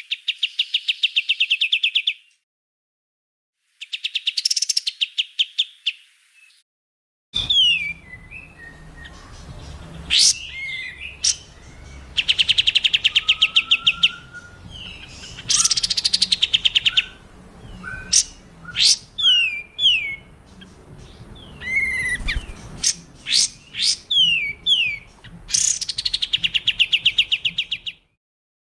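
Recorded songbird song spliced together for training cage birds: repeated rapid trills of fast pulses, each about two seconds long, mixed with sharp falling whistles and short chirps. The sound cuts abruptly to silence twice in the first seven seconds and again near the end, where clips are joined.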